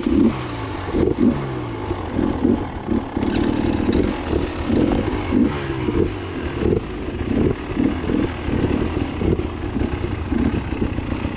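Dirt bike engine revving in short, uneven bursts of throttle, its pitch rising and falling again and again, as when riding a rough enduro trail.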